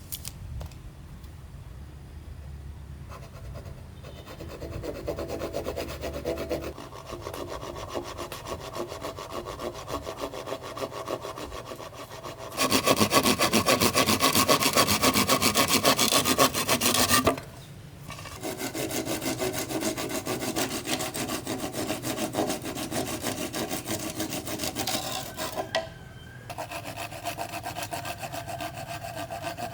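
Saw cutting through bamboo in quick, steady back-and-forth strokes, loudest for about five seconds in the middle, with two short pauses.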